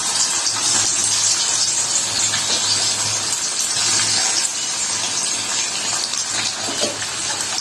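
Paneer cubes sizzling steadily as they fry in hot oil in a kadai.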